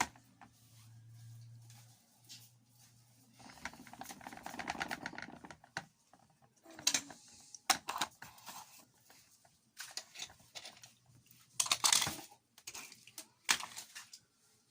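Plastic toy vehicles being handled and pushed about, with irregular clattering, scraping and sharp clicks. A low steady hum runs through the first three seconds or so.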